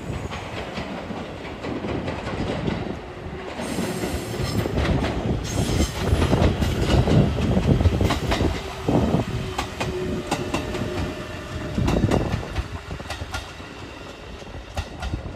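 A train passing slowly, its wheels clacking over rail joints in a run of sharp clicks. The rumble swells loudest in the middle of the pass.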